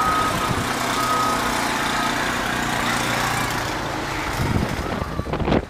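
A truck's engine running steadily, with its reversing alarm beeping about once a second for the first second or so. A brief loud rush near the end, after which the sound drops away.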